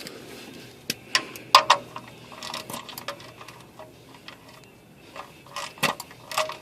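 Hand ratchet with socket clicking and clinking in short irregular bursts, metal on metal, as it works the oil drain plug. Some clicks ring briefly.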